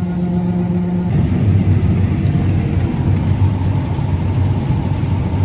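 Combine harvester running. A steady engine hum about a second in gives way abruptly to a rougher, heavier rumble that carries on steadily.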